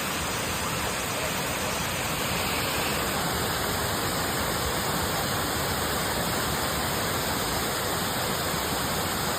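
Waterfall's falling water rushing in a steady, unbroken wash of noise.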